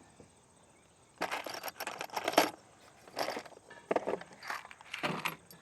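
Small metal hardware, a bolt and washers, clinking and rattling as it is picked up and handled, in several short bursts starting about a second in.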